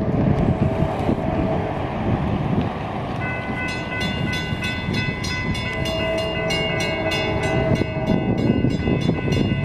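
Approaching freight train's diesel locomotives rumbling, with a horn note sounding at times. From about three seconds in, a grade-crossing bell rings with rapid, even strikes.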